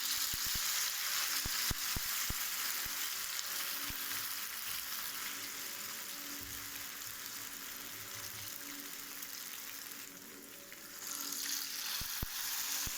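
Batter-coated spiral potato on a skewer frying in hot oil: a steady sizzle with scattered pops. The sizzle drops for a moment near the end, then picks up again.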